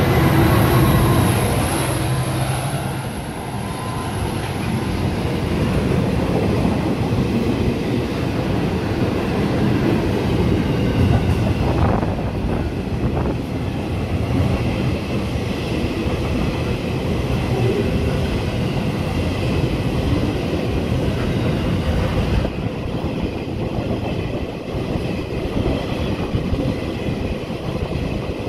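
Freight train passing close by at speed: the Pacific National 81 class diesel-electric locomotive's engine is heard for the first few seconds, then a long string of hopper wagons rolls past with a steady, dense rumble of wheels on rail. A faint high steady squeal comes in during the later part.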